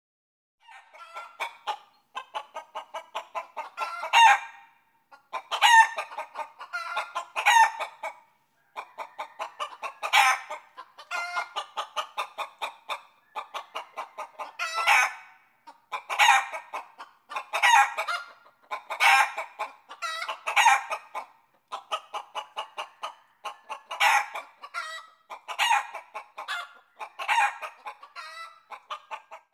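Chickens clucking and cackling: runs of quick clucks that build into a louder, drawn-out squawk, over and over.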